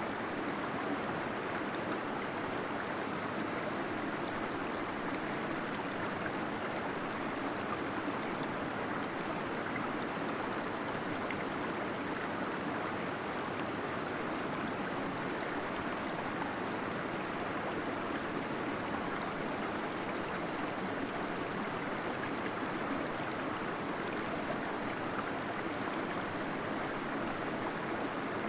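Small waterfall flowing steadily in a cave: a constant rush of falling and gurgling water, even throughout.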